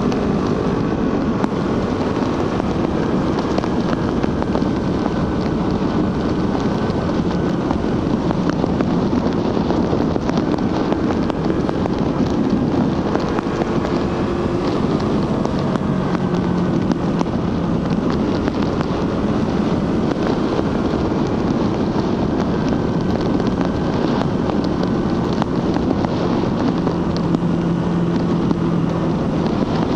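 Suzuki GSX-R150's single-cylinder engine through its stock exhaust, running steadily while under way, its pitch rising and falling gently, with wind noise on the microphone.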